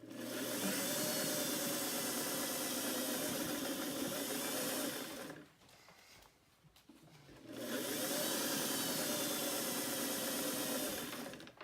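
Electric sewing machine running steadily as it topstitches a pants hem, in two runs of about five and four seconds with a pause of about two seconds between.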